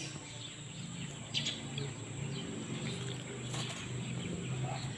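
Faint outdoor birdsong: a few short, high chirps over a steady low hum.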